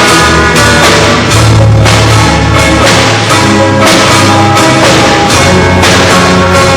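A rock band playing loudly at a soundcheck, with a drum kit keeping a steady beat under bass and other pitched instruments.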